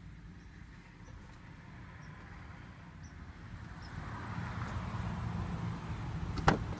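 SUV engine idling with a steady low hum that gets louder about four seconds in, then one sharp click near the end.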